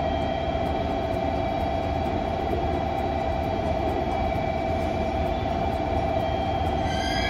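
Electric train running: a steady rumble with a constant whine. Near the end a set of higher tones sets in.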